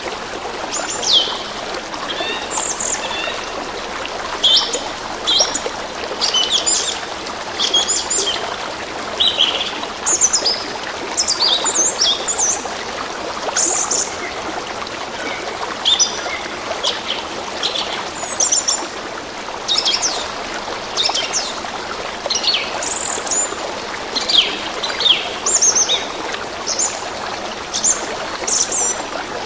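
A stream of running water trickling steadily, with many birds chirping and calling over it in short, quick notes.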